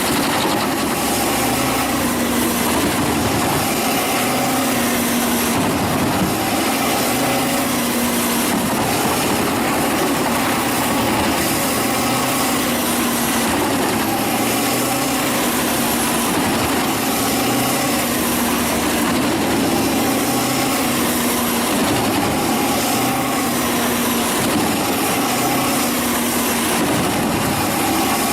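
A wood chipper's engine running steadily at a constant, loud level, with no sudden changes.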